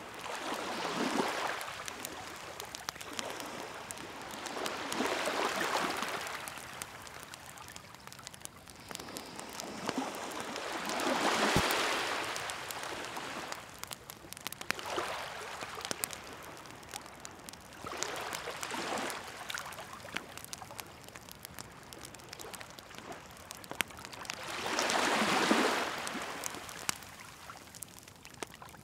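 Waves washing onto the shore in slow swells every few seconds, with a wood fire crackling and popping throughout.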